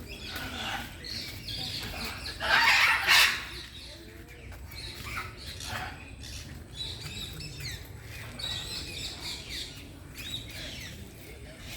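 Several birds chirping and calling, with short rising and falling notes, and one loud harsh squawk lasting under a second about two and a half seconds in.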